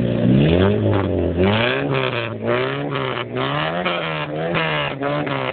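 Straight-piped Citroën Saxo exhaust revving: first two slow rises in engine speed, then quick blips of the throttle about twice a second, each rising and falling in pitch.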